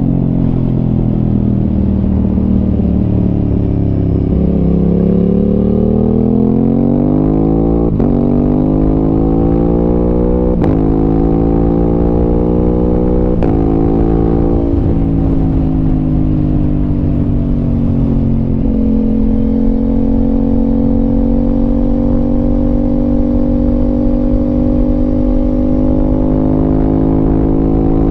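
Aprilia RS 660 parallel-twin engine through an SC Project aftermarket exhaust, accelerating hard through the gears: the pitch climbs in three rising sweeps, each broken off by a quick upshift with a sharp click and drop in revs. It then eases off and settles to a steady cruise, with wind noise underneath.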